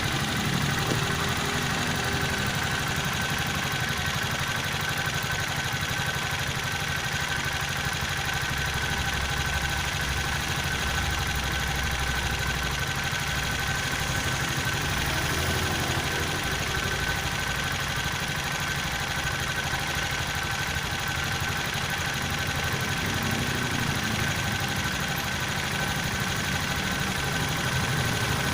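Viar engine idling steadily after a new cylinder block has been fitted, with a steady high tone running through it.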